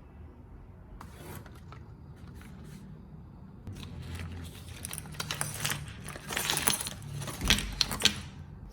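Hands handling small hard objects and packaging: irregular rustling, scraping and light clattering, busier and louder in the second half, stopping shortly before the end.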